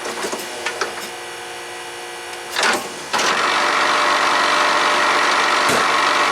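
4th-generation Pontiac Firebird pop-up headlight motor, switched on about three seconds in after a few clicks, then running with a steady loud whirring grind instead of stopping, the sign of a damaged gear inside the motor.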